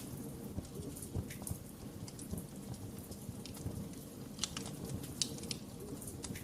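Fireplace fire crackling: a steady low rumble of flames with frequent sharp, irregular pops, a few louder ones clustered a little past the middle.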